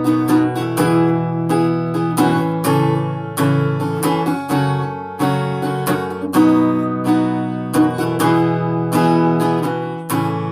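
Acoustic guitar strummed in a steady rhythm of chords, an instrumental passage with no singing.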